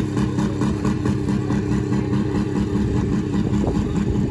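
Demolition derby car engine running loudly at steady raised revs, held after a quick rev-up.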